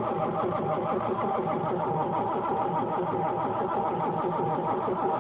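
Starter motor cranking the 1986 Ford Mustang's 5.0-litre V8 in a steady, even rhythm. The engine turns over but does not catch, and the cranking stops just after the end.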